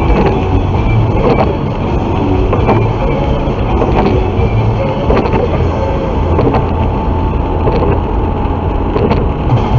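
Steady vehicle rumble, like a car running or driving, with faint tones and scattered clicks over it.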